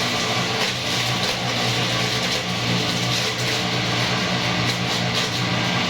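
Electric motor of a bakso meat grinding machine running steadily: a constant low hum with a broad whirr over it.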